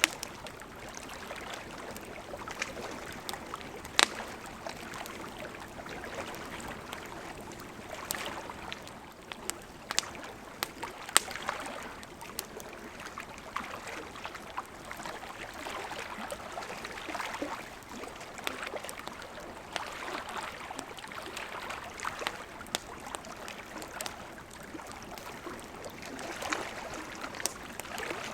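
Campfire crackling, with scattered sharp pops, over small lake waves lapping in soft, swelling washes.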